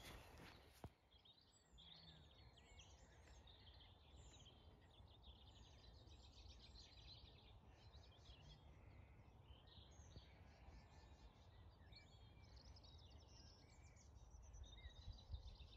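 Faint birdsong, many short chirps and twitters from several small birds, over a low outdoor rumble of wind.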